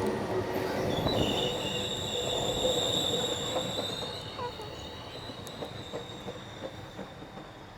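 A train moving away, its wheels squealing in high steady tones. The clicks of the wheels over the rail joints fade as it recedes.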